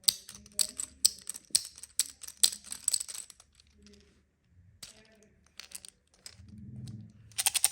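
Small hard candies dropping and clicking against one another: a quick run of sharp clicks that thins out after about three seconds, with a few more clicks near the end.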